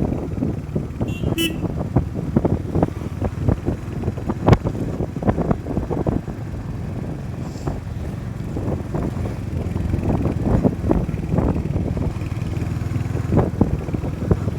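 Motorcycle riding at low speed, with engine and road rumble and wind buffeting the microphone in irregular thumps. A short horn toot sounds about a second in.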